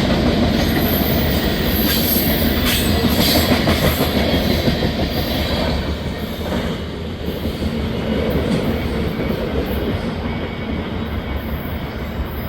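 Norfolk Southern mixed freight train's cars rolling past: a steady rumble of steel wheels on the rails that fades somewhat in the second half as the train draws away.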